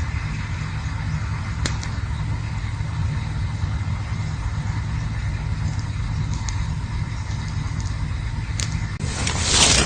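Campfire burning with a few sharp crackling pops over a steady low rumble; near the end a louder rushing hiss swells up.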